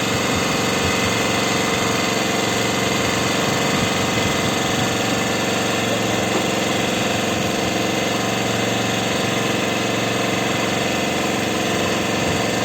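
An engine on a fishing boat running steadily at idle, an even, unchanging drone.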